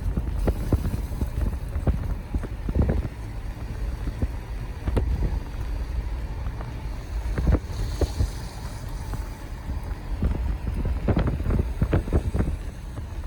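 Wind buffeting the microphone: an uneven low rumble with frequent gusts.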